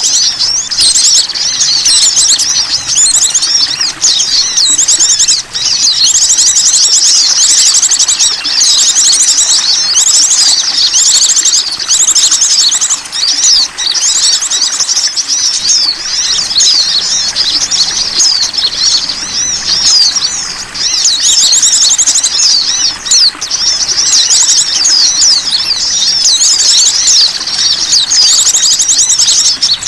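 Dense, continuous chorus of small songbirds' high chirps and rapid trills, layered and overlapping: a bird-lure call recording used to draw in small wild birds.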